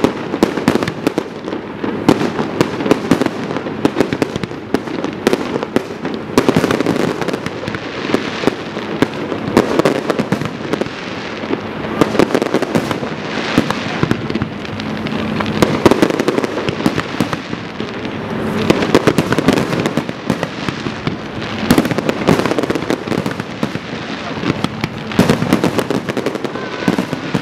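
Aerial firework shells bursting in a dense, loud barrage: rapid, overlapping bangs with no let-up, the finale of a fireworks display.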